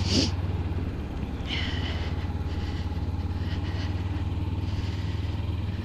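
Kawasaki Ninja 300's parallel-twin engine running steadily under way, with road noise. A brief higher-pitched sound comes in about a second and a half in.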